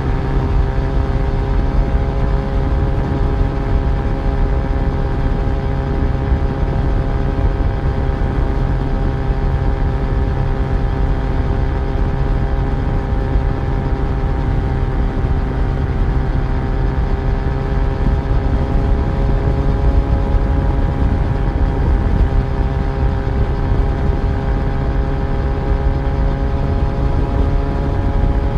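Yamaha FZ1 inline-four motorcycle engine running at a steady cruise, holding a nearly constant pitch, under a heavy low rumble.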